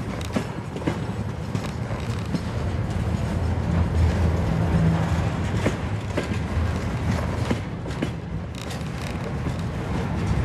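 Freight train of loaded container flatcars rolling past close by: a steady low rumble of steel wheels on rail, with frequent irregular clicks and knocks as the wheels cross rail joints.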